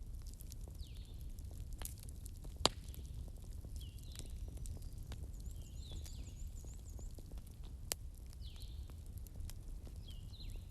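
Fireplace crackling over a low steady rumble, with sharp pops, the loudest about two and a half and eight seconds in. A small bird chirps over it again and again, about every second and a half.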